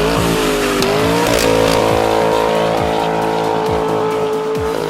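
A car at high revs with a steady, pitched tire squeal, as in a burnout: the pitch climbs over the first second and a half, then holds level until it drops just before the end.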